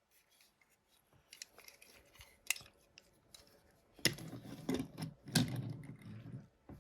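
Small toys handled on a table: scattered light clicks and rubbing, turning into louder scraping and rustling from about four seconds in.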